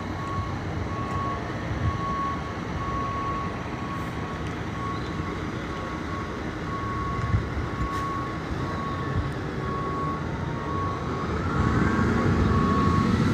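Vehicle engines and traffic running with a steady rumble, through which a short electronic beep repeats at an even pace. Near the end a vehicle grows louder.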